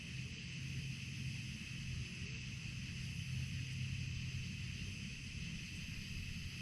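Steady chorus of night insects in the summer heat, with a low steady hum beneath it.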